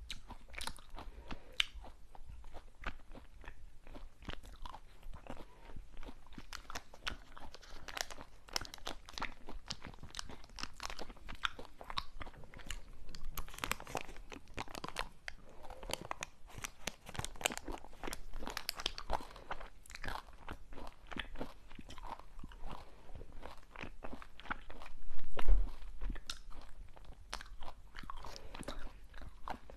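Close-miked crunching and chewing of a crunchy snack: a dense run of small, crisp crunches, with one low thump about 25 seconds in.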